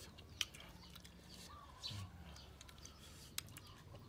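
Mostly quiet, with a few sharp clicks from chewing crunchy green ambarella fruit and faint bird chirps.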